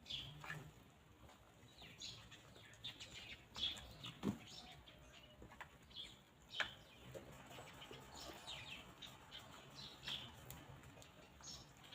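Free-range chickens foraging, heard faintly: scattered soft pecks and taps, with a few sharper ones about four and six and a half seconds in. Short high chirps and a low, broken clucking murmur sound throughout.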